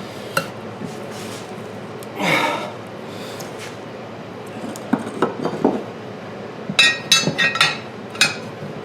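Metal tire spoons clinking and knocking against a lawn tractor's steel wheel rim as a tire is pried off by hand, with a short scrape about two seconds in and a quick run of sharp clinks near the end.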